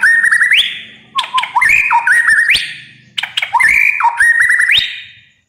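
White-rumped shama singing a loud phrase about three times over. Each phrase is short whistled notes mixed with sharp clicks, ending in a quick rising whistle.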